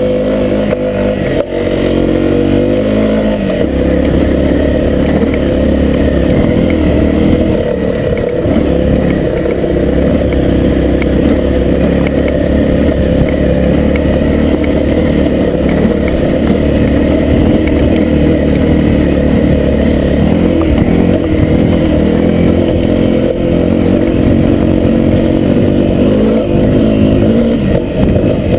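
Honda CRF250L's single-cylinder four-stroke engine running under load on a trail ride, its revs rising and falling as the throttle is worked.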